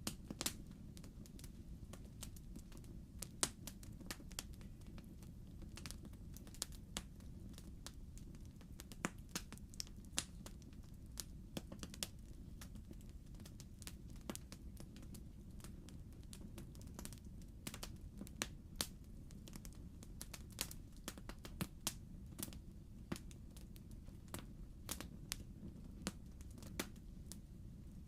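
Logs crackling in a fireplace: irregular sharp pops and snaps, some louder than others, over a steady low background of the burning fire.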